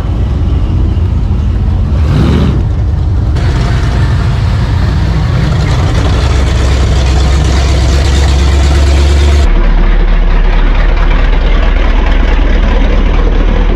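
Car engines running loudly, with a deep low rumble. The sound changes abruptly a few times.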